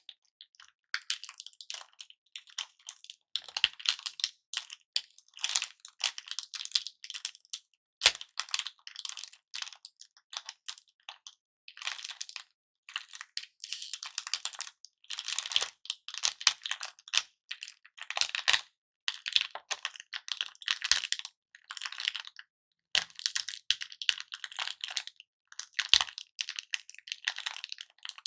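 Close-miked handling of lollipops in cellophane wrappers: irregular crinkling and crackling broken up by small clicks, with a sharper crack about 8 seconds in and again near the end.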